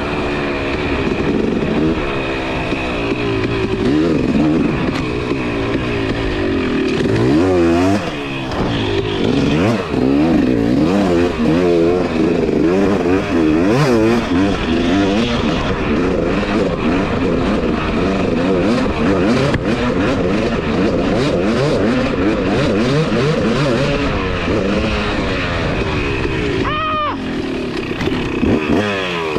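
Two-stroke dirt bike engine under way, its revs rising and falling again and again as it accelerates and shifts. Near the end it climbs steeply in one sharp rising rev.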